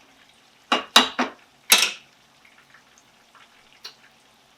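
Metal kitchen utensil knocking against a pan or dish: four quick clanks about a second in, the last one a little longer.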